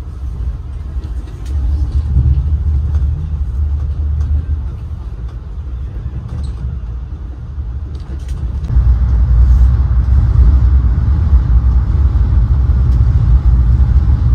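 Low, steady rumble of an AREX airport railroad train heard from inside the carriage while it runs at speed. The rumble grows louder and fuller about nine seconds in, as the train runs onto a steel truss bridge.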